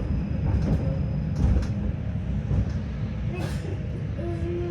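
Tram running along the track, heard from inside the car: a steady low rumble of wheels on rails, with a few short knocks.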